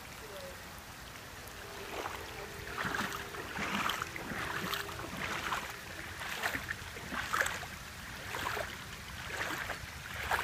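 Heavy rain falling and floodwater running, a steady wash with a rushing noise that swells and fades about once a second.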